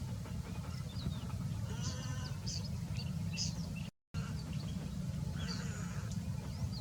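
Small birds chirping in short, high squeaks, with a bleat-like call about two seconds in, over a steady low rumble. The sound drops out completely for a moment about four seconds in.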